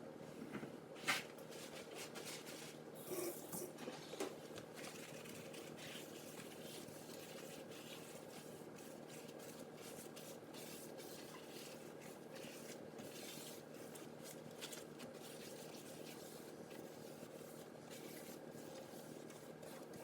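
Faint rubbing of a damp paper towel wiping oven glass, with a sharp tap about a second in and a few scuffs around three to four seconds in, then quieter, intermittent wiping over a steady low hum.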